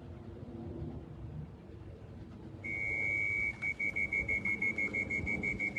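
Electronic beeping: a single high steady beep, held for about a second starting just under halfway in, then breaking into rapid beeps about five a second.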